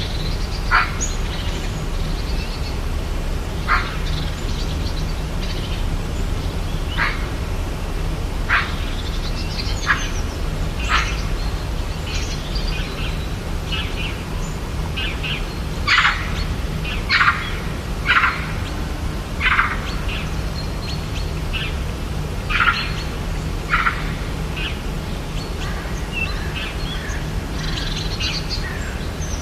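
Rainforest ambience: birds giving short, sharp calls scattered throughout, busiest about 16 to 20 seconds in, over a steady low background noise.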